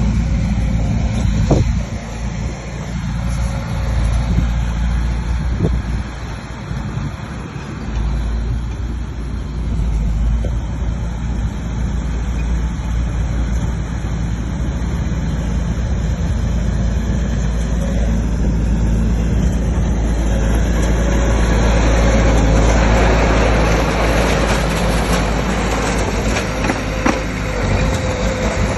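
Bulldozer's heavy diesel engine running steadily under load, with a broad rush of noise growing louder about two-thirds of the way in.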